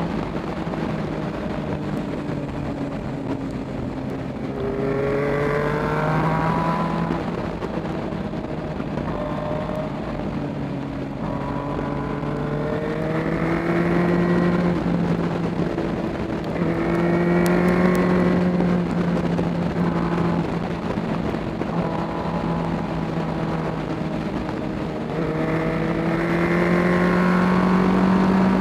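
Motorcycle engine heard from a camera mounted on the bike. Its note rises four times as the bike accelerates and drops back as it eases off, over a steady rush of wind and road noise.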